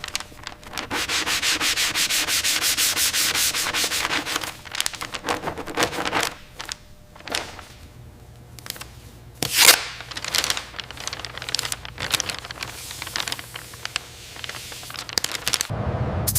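Hand sanding: abrasive paper rubbed back and forth in quick, even strokes, about four a second, for the first few seconds, then in uneven, broken strokes.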